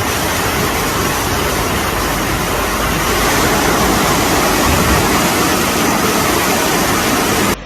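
Loud, steady rushing of floodwater, cutting off abruptly near the end.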